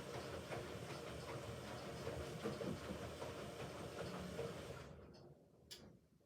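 Hoover Ecologic Computer 1300 washing machine running a rinse/spin cycle, the drum turning with a steady clattering and clicking. The motor cuts out about five seconds in and the sound dies away, with a single sharp click near the end.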